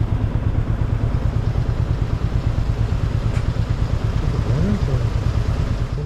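Motorcycle engine running steadily, a dense low rapid pulsing.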